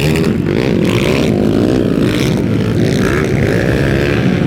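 Several underbone motorcycles' small engines revving together as they race, their pitches overlapping and rising and falling.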